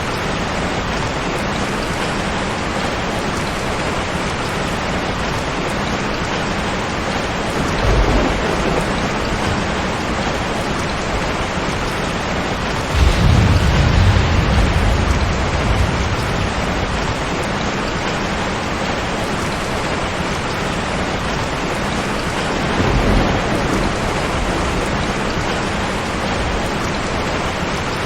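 Steady rain falling hard, with three low rumbles of thunder: a short one, a louder and longer roll about halfway through, and another short one later.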